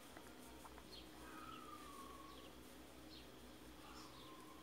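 Faint bird calls in the background: short falling chirps, one or two a second, and a longer falling whistle about a second in and again near the end.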